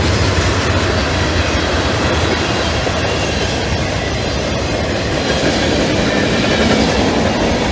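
CSX mixed freight train's cars rolling past at track speed on welded rail: the steel wheels give a steady, loud rumble.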